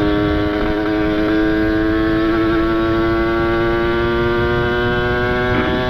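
Ported Kawasaki Ninja RR 150 two-stroke single engine running steadily under way, its pitch climbing slowly as the bike gently gains speed, with wind rushing low underneath.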